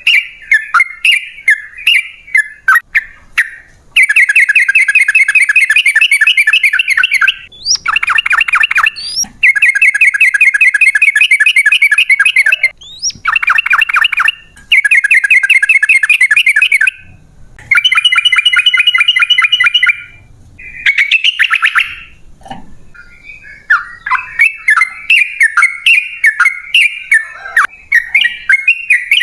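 Yellow-vented bulbul (trucukan) song. Short choppy chirps at first, then several long, fast runs of rapidly repeated notes, each lasting one to three seconds with brief pauses between them. Near the end it returns to broken chirping.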